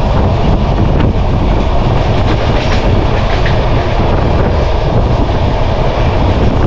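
Indian Railways express train running along the track, its coach wheels rumbling steadily on the rails, heard from an open coach doorway.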